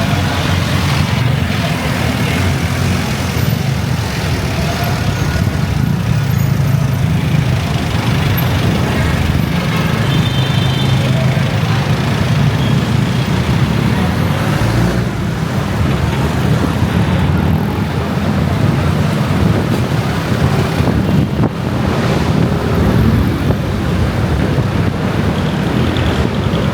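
Steady engine and road noise of a moving motorcycle in city traffic, with traffic running alongside.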